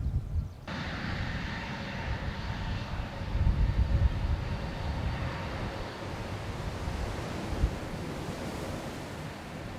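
Jet airliner's engines at takeoff thrust: a steady rushing noise with several whining tones, coming in abruptly about a second in, its higher whine fading away after about six seconds. Gusty low rumbles of wind on the microphone run underneath.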